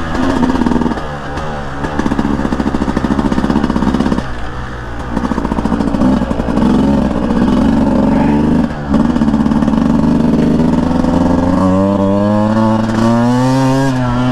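Beta 200 single-cylinder two-stroke dirt bike engine under way, its pitch rising and falling with the throttle. It eases off about four seconds in, drops out for an instant near the nine-second mark, and then climbs steadily in pitch near the end as the bike accelerates.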